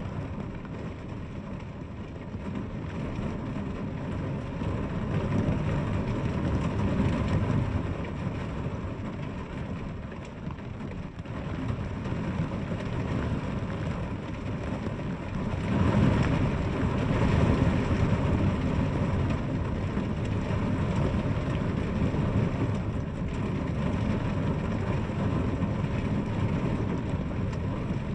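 Heavy rain falling, a steady rushing noise that swells louder twice.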